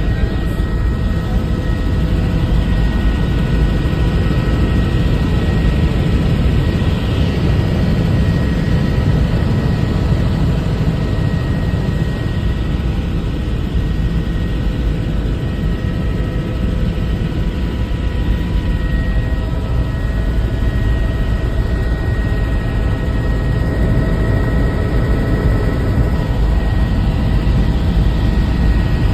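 Helicopter in flight, heard from aboard: a loud, steady rotor and engine noise with a constant high turbine whine over it.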